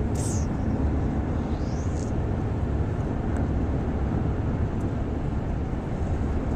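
A steady low rumbling noise, with a couple of brief high chirps near the start, one of them rising in pitch.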